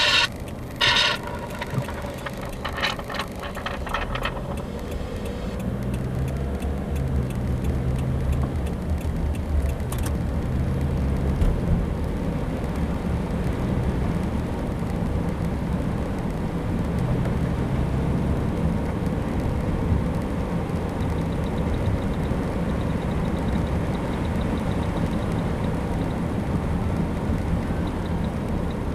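A vehicle's engine and road noise as a steady low rumble, its pitch shifting now and then. Two short, loud tones sound at the very start.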